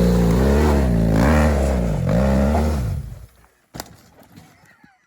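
Motorbike engine revving, its pitch rising and falling several times, then dying away about three seconds in; a single sharp click follows near the end.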